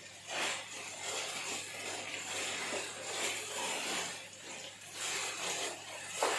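Onions and garlic sizzling in hot oil in a pan, a steady hiss that swells and fades.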